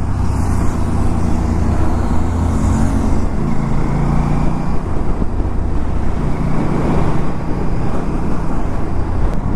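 Aprilia RS 457 parallel-twin motorcycle engine running steadily while riding on the road, with a low wind rumble on the microphone.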